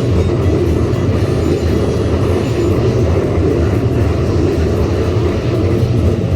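Keisei 3700-series electric train passing at close range: a loud, steady rumble of wheels and motors.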